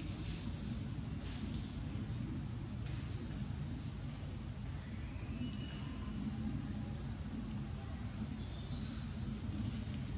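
Outdoor background noise: a steady low rumble under faint, repeated high-pitched chirps from birds or insects.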